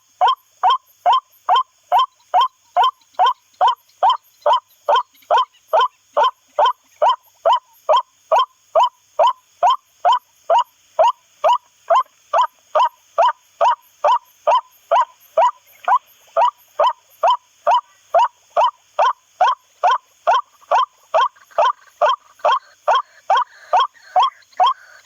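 White-breasted waterhen call played as an MP3 lure: one short, sharp note repeated about twice a second in an even, unbroken series.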